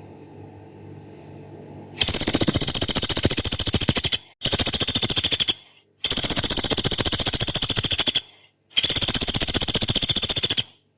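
Pelatuk beras, a small pygmy woodpecker, giving its long harsh rattling call. It comes as four loud runs of rapid high notes, each lasting one to two seconds, with short breaks between them.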